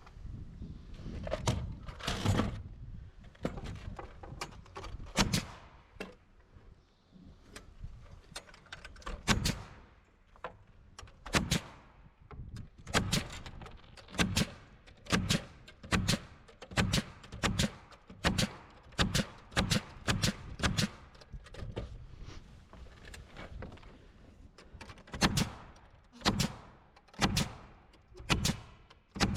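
Full round-head pneumatic framing nailer firing over and over, driving nails through metal hurricane straps into the framing: a long series of sharp shots, sparse at first, then about one a second with some in quick pairs.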